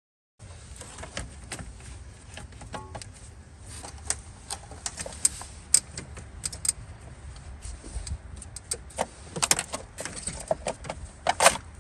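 Parts and tools being handled: irregular clicks, taps and small rattles over a steady low rumble, with a burst of louder clicks near the end.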